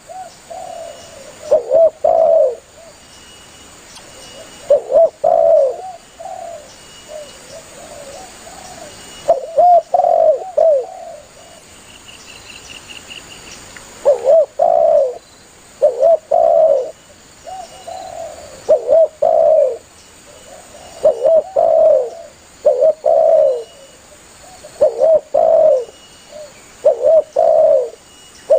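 Spotted dove cooing: short phrases of two or three throaty coo notes, repeated every few seconds, with gaps between bouts. This is the call that hunters play back to draw other doves in.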